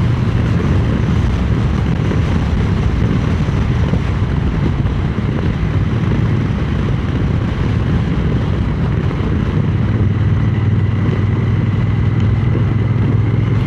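Triumph Speed Twin 900's parallel-twin engine running at a steady cruise under a constant rush of wind on the microphone, with the engine's low note growing firmer about ten seconds in.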